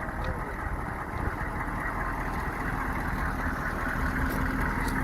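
Hummer H1's 6.5-litre turbo-diesel V8 idling steadily; a steady low hum joins about halfway through.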